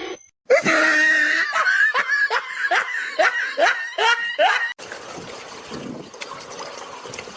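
Someone laughing in a quick run of short syllables, each rising in pitch, about two a second for roughly four seconds. The laughing then gives way to a steady background hiss.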